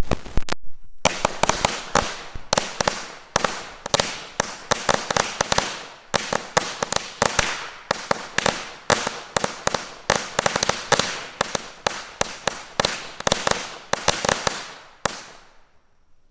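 Black Cat firecrackers going off in a rapid chain: an irregular run of sharp cracks, several a second, that stops about a second before the end.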